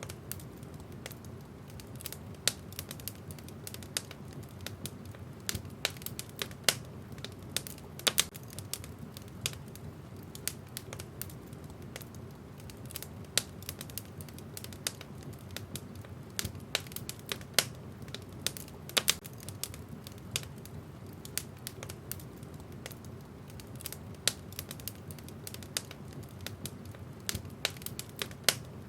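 Wood fire burning in a fireplace: a steady low rumble of the flames with irregular sharp crackles and pops of burning logs, several a second, some much louder.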